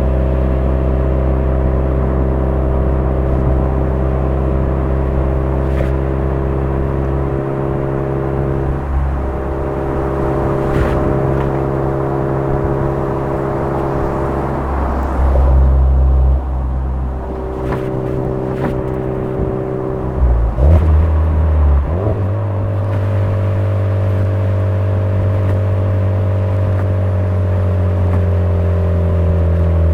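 Suzuki Swift Sport (ZC33S) 1.4-litre turbocharged four-cylinder running through a Fujitsubo aftermarket exhaust at a steady cruise. The note breaks briefly about twenty seconds in, then its pitch falls slowly toward the end as the car slows.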